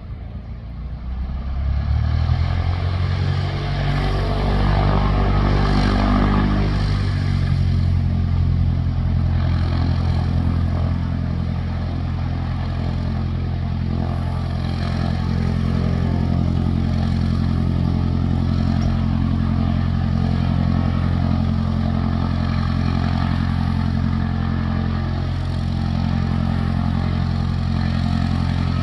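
A Cessna light aircraft's piston engine and propeller throttling up: the pitch rises over the first several seconds, then holds steady at full takeoff power.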